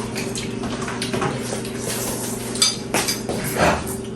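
Cutlery clinking against bowls and dishes while people eat, with a few sharp clinks in the second half over a steady low hum.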